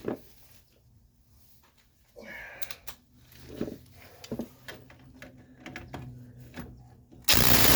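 Tools being handled at the workbench: scattered light clicks and clatters of a socket and wrench being picked up and fitted. Near the end comes a loud, even burst of noise lasting under a second.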